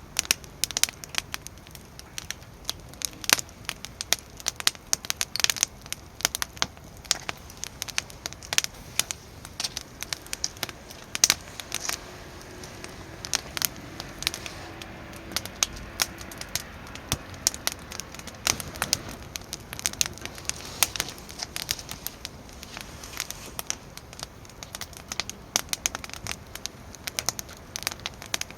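Wood fire burning in a fire pit, crackling with many irregular sharp pops.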